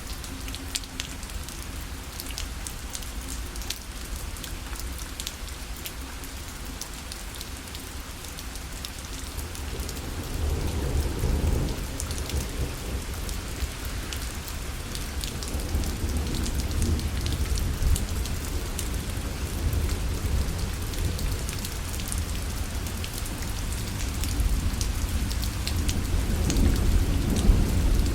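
Steady rain pattering on a fabric parasol, with dense fine drop taps. A low rumble of thunder swells in about a third of the way through and keeps rolling, strongest near the end.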